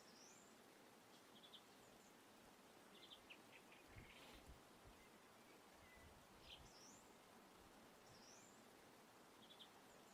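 Near silence with faint bird calls: a few short rising whistles and small clusters of quick chirps. A brief low rumble comes about four seconds in.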